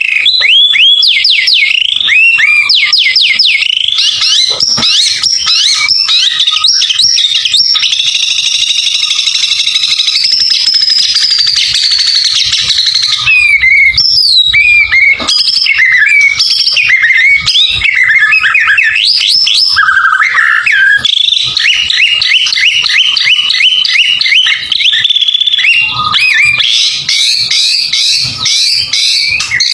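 White-rumped shama singing a loud, continuous song of rapid, varied whistles, sweeping notes and trills, with bursts of quickly repeated notes and some longer held phrases.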